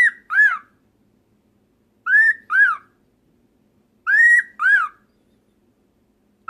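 Cockatiel giving a wolf whistle three times, about every two seconds: each a rising, held note followed by a shorter falling note.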